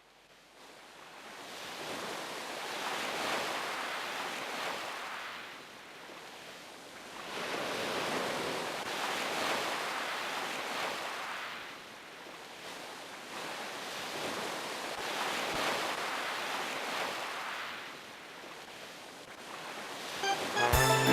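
Sea waves breaking on a shore, swelling and falling back three times about six seconds apart. Music comes in just before the end.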